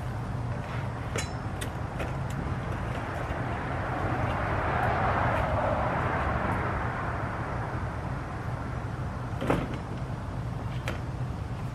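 A vehicle passing, swelling up and fading away over a few seconds above a steady low rumble. A single sharp knock comes near the end.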